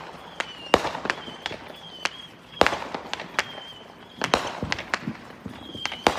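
Consumer fireworks going off around the neighbourhood: a run of sharp bangs, about a dozen in six seconds, some close and loud, others fainter and farther off, with the loudest a little before the middle.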